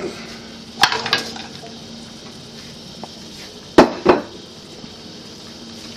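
A metal utensil knocking against a frying pan in two short clusters of clinks, about a second in and again near four seconds, the second the loudest, over a steady sizzle of ground beef and vegetables frying.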